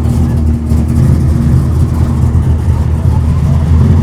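A car engine idling steadily, a loud low rumble.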